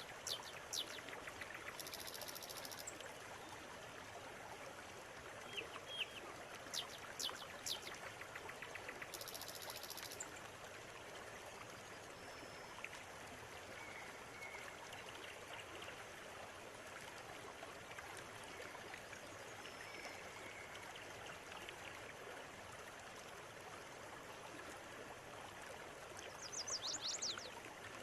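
River water running steadily, with birds calling over it: clusters of quick high chirps near the start, around six to seven seconds in and near the end, and two short high buzzy trills around two and nine seconds in.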